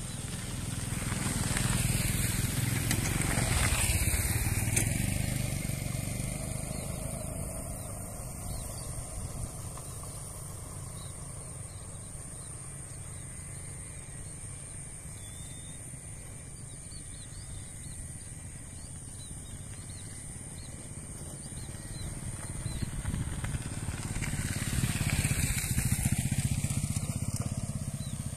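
Two vehicles passing one after the other: the first swells and fades a couple of seconds in, the second builds and fades near the end, over a steady outdoor background with a constant high hiss.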